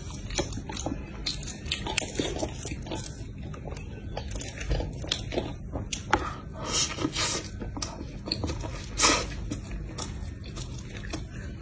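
Biting and chewing a fried shrimp-and-chicken burger with a crispy breaded coating: a steady run of crunches and chewing sounds, with a few louder crunches in the second half, the loudest about nine seconds in.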